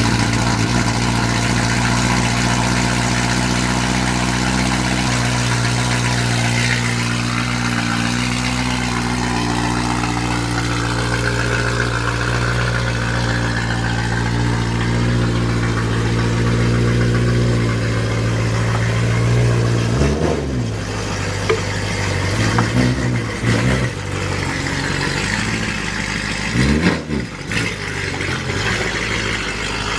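Straight-piped BMW E92 M3's 4.0-litre V8 running loud with no mufflers, idling steadily just after its first start on the new exhaust. In the last ten seconds the throttle is blipped a few times, each short rev rising and dropping back to idle.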